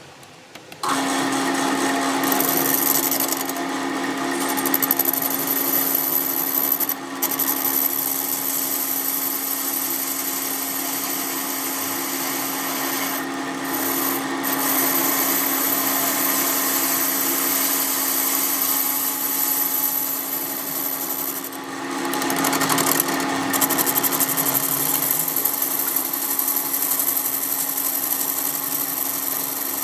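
A workshop power tool or machine switches on about a second in and runs steadily with a constant hum, its sound dipping briefly a few times.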